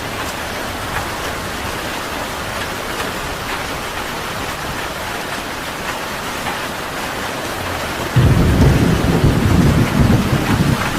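Steady rain falling, joined about eight seconds in by a sudden, loud low rumble of thunder that carries on to the end.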